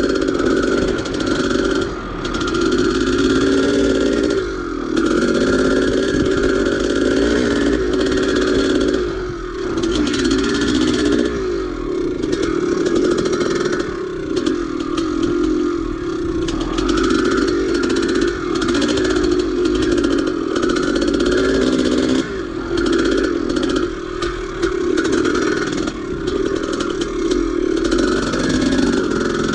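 1983 Maico 490's big single-cylinder two-stroke engine running hard under load as the dirt bike climbs, the throttle eased off briefly and opened again every few seconds.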